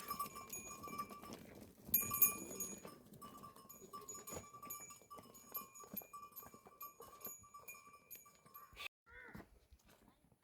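Goats bleating now and then, over a thin high tone that pulses on and off.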